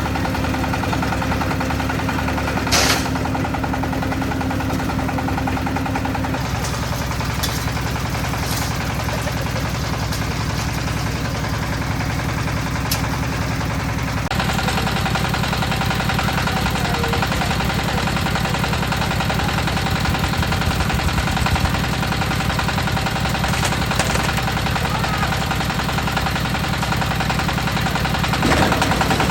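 A concrete mixer's engine running steadily with a rapid chugging beat. Its note shifts about halfway through, and a sharp knock sounds about three seconds in.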